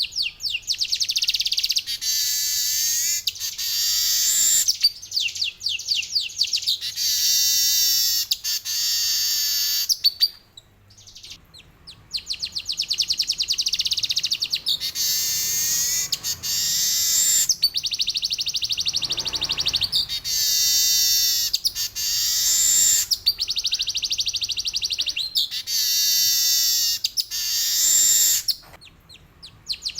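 Male manyar (weaver bird) singing long, fast, high-pitched trilled phrases, one after another, each lasting a second or two. The song breaks off twice for about a second, once near the middle and once near the end.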